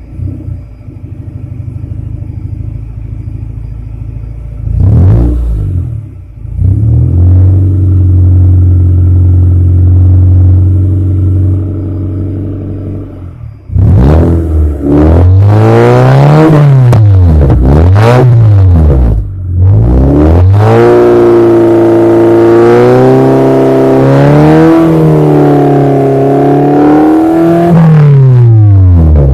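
Honda Civic's stock D16 four-cylinder engine revving through a Spoon muffler. It idles at first, blips once about five seconds in, then holds a steady rev. After that it gives a string of quick blips and a long high rev that drops back near the end.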